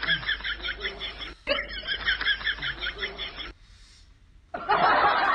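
High-pitched voice repeating short syllables very fast, about eight a second, in two runs of about two seconds each. Near the end comes a burst of hissing noise.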